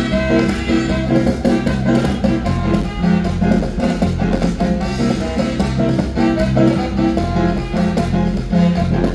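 Lively band music playing continuously, with several instruments sounding together.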